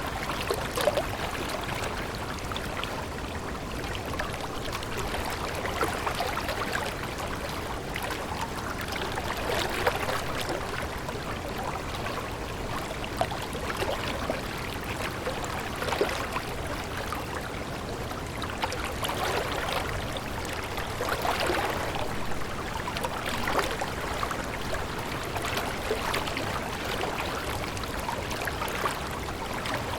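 Running water trickling and splashing continuously, with many small splashes and gentle swells every few seconds, like a small stream over stones.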